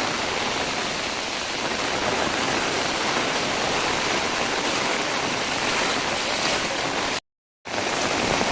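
Heavy rain falling steadily as a dense, even hiss. The sound cuts out completely for about half a second near the end.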